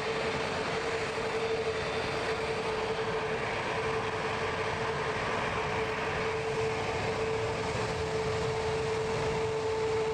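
Steady jet aircraft engine noise: an even rumble with a constant mid-pitched whine, and a second, higher tone joining near the end.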